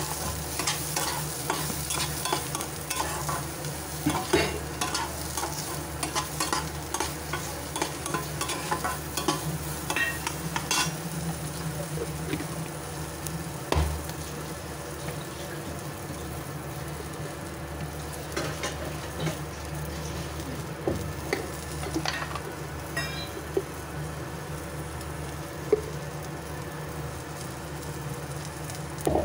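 Peanuts, curry leaves and chillies frying in a little oil in a metal kadhai, sizzling steadily, while a steel spatula stirs and scrapes them against the pan with frequent clicks, busiest in the first half. There is one louder knock of the spatula about 14 seconds in, and a steady low hum underneath.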